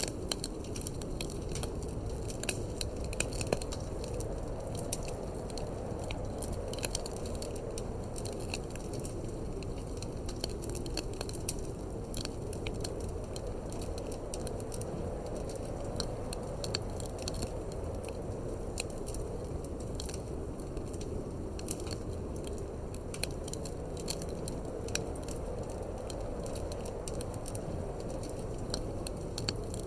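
Wood fire crackling in a fireplace: many small, sharp, irregular pops over a steady low rumble of wind.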